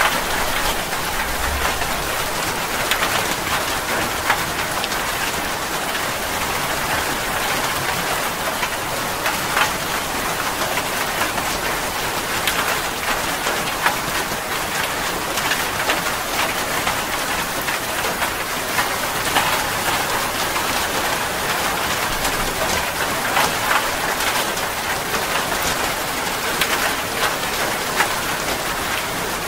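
Steady heavy rain falling: an even hiss with many individual drops striking sharply through it.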